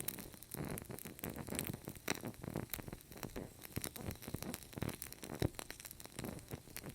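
Fire crackling: a steady run of irregular sharp pops and snaps over a soft hiss of burning.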